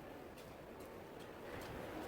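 Faint steady background noise with a few soft ticks.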